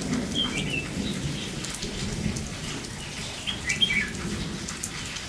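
Steady rain falling, with raindrops ticking, while red-whiskered bulbuls give a few short calls, three brief phrases over several seconds.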